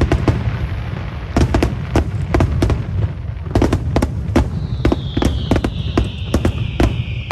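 Aerial fireworks bursting in quick succession: many sharp bangs over a continuous low rumble. From about two-thirds of the way through, a slowly falling hiss runs under the bangs.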